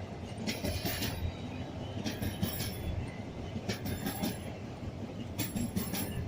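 Train cars rolling past with a steady rumble. Their wheels clatter over a rail joint in a regular rhythm, about once every one and a half seconds.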